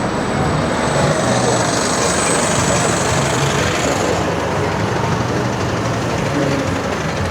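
Busy city-street traffic noise: a steady, dense wash of passing vehicles, with a thin high whine that fades out about four seconds in.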